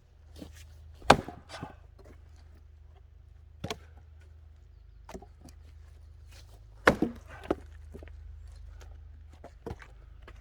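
Axe blows splitting firewood: a few sharp, separate wooden cracks, the loudest about a second in, another strong one near seven seconds followed quickly by a second, with lighter knocks of wood between.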